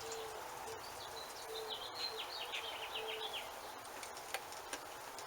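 A songbird singing: a quick trill of short, falling high notes starting about a second in and lasting a couple of seconds, with a lower note repeating in short pieces and a faint steady hiss underneath.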